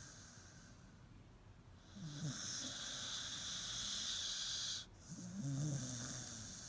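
Staffordshire bull terrier snoring in its sleep: after a quiet start, one long wheezy snoring breath begins about two seconds in and cuts off sharply, then another snore starts straight after.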